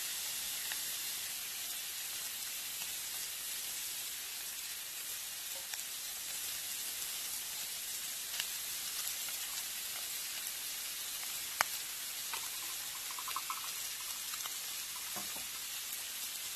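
Food frying in a pan, a steady sizzle, with scattered clicks and scrapes of a spatula working the food in the pan, one sharp click about two-thirds of the way through.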